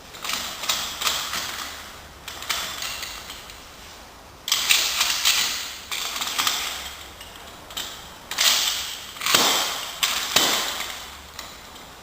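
Sharp mechanical clicks and metal knocks in uneven clusters, a hand-worked metal mechanism being handled and adjusted.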